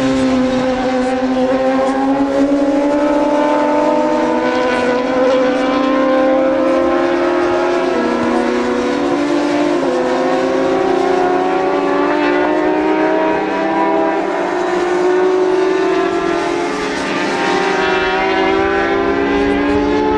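Several racing motorcycle engines running hard together, a steady high-revving drone whose pitch drifts slowly down and then up, with small steps as they shift gears.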